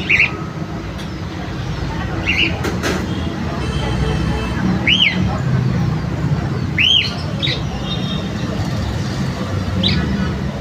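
Caged birds giving short, arching chirps, one every couple of seconds, over a steady low rumble.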